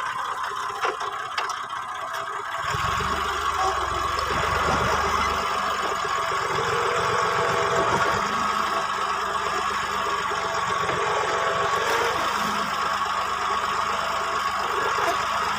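Massey Ferguson 240 tractor's three-cylinder diesel engine running steadily, getting a little louder and deeper about three seconds in.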